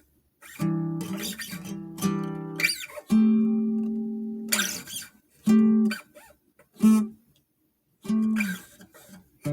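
Acoustic guitar strummed in chords, some ringing on for a second or more before being stopped, with a few abrupt silent breaks between them.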